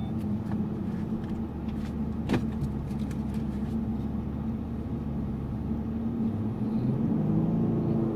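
Lexus GS450h hybrid sedan moving off at low speed, heard as a steady low drone that rises a little in pitch near the end, with a single click a couple of seconds in.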